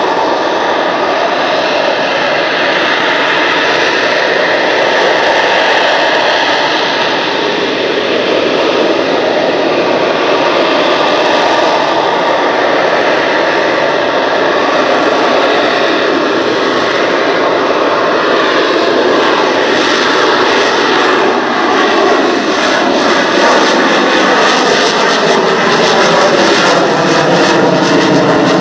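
McDonnell Douglas EAV-8B Harrier II's Rolls-Royce Pegasus turbofan running loud and steady as the jet displays. It makes a dense jet roar with a steady high whine, and in the last several seconds its tones slide in pitch as the aircraft moves.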